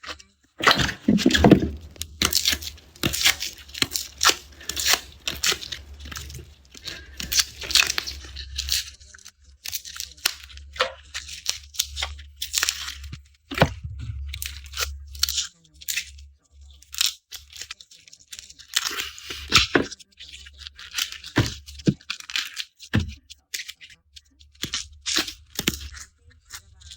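Garlic being peeled by hand: the dry papery skins tear and crackle in quick, irregular clicks, with an occasional sharper crack as a clove is split off.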